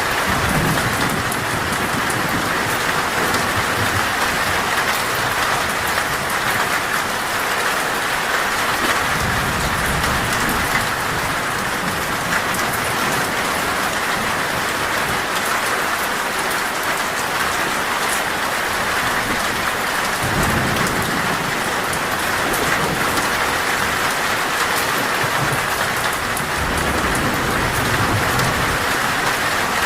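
Heavy rain drumming steadily on a metal roof, with low rumbles of thunder swelling up several times.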